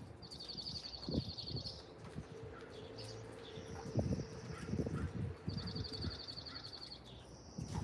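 Small songbirds singing: a rapid, high trill repeated four times, each lasting about a second. Low rumbles and a faint steady hum sit underneath.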